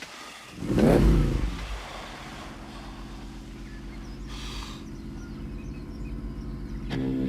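Monster truck engine revving hard about a second in, then running steadily. There is a short hiss about halfway through, and the engine gets louder near the end.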